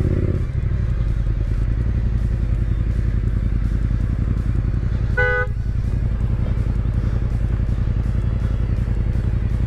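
Motorcycle engine running steadily at low revs. A short, single horn toot sounds about five seconds in, typical of a car driver honking at a motorcycle filtering between lanes.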